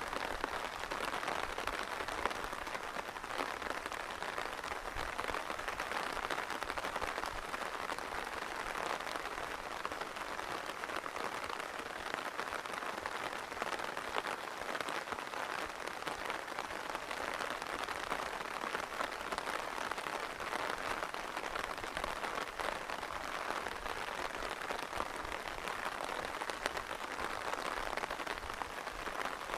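Steady rain falling: a dense, even hiss made of countless small drop patters.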